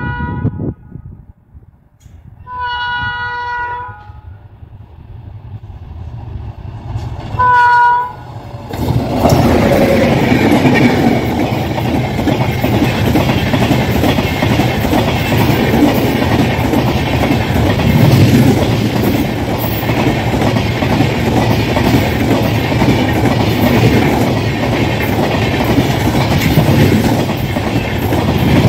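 The horn of an Indian Railways WAP-7 electric locomotive sounds in blasts: a second-long blast a few seconds in, then a short, louder blast just before the train reaches the microphone. From about eight seconds in, the express's coaches pass close at speed with a steady rush and wheel clickety-clack over the rail joints.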